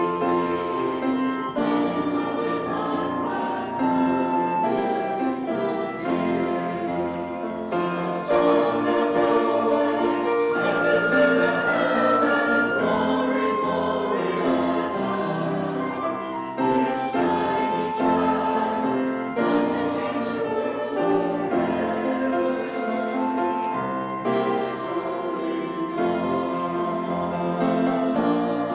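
Choir singing a sacred choral piece with musical accompaniment.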